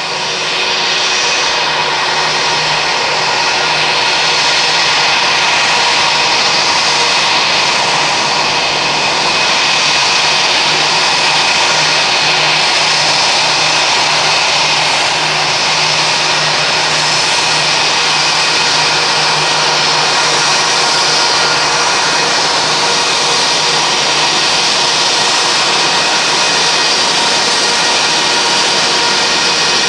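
Airbus A320-232's IAE V2500 turbofan engines running steadily: a loud, even rush with several steady whining tones, growing a little louder over the first few seconds and then holding.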